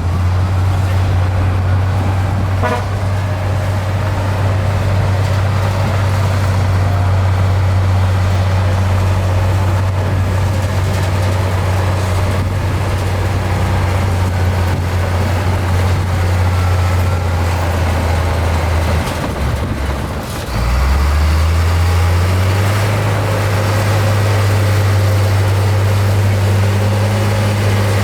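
Diesel engine of heavy earthmoving machinery running steadily with a deep drone. It dips and drops about twenty seconds in, then picks back up.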